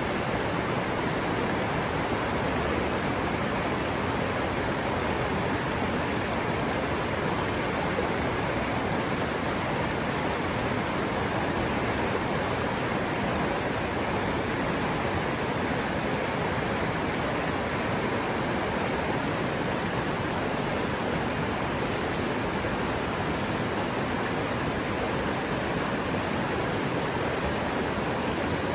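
River water running steadily over rocks, an even rushing noise with no change in level.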